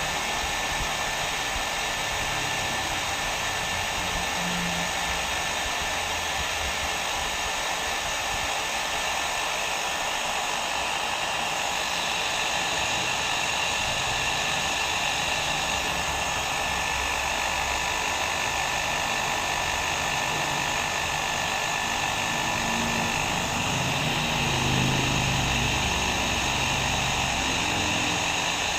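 Hair dryer running steadily: a constant rushing hiss with a faint steady whine in it.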